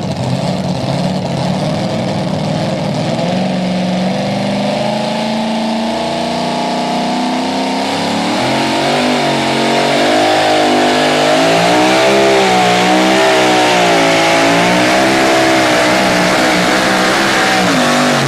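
Two-wheel-drive pulling truck's engine at full throttle under load on a pull: the revs climb steadily for the first several seconds, then waver up and down, and fall away near the end as the run finishes.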